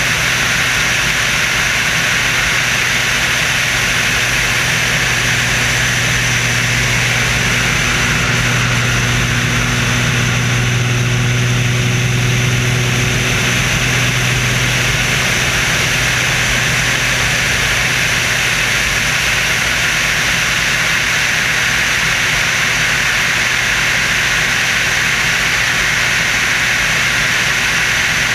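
Steady drone of an aircraft engine with rushing wind noise, heard on board the Screamin' Sasquatch stunt plane in flight. A low hum swells for a few seconds about ten seconds in.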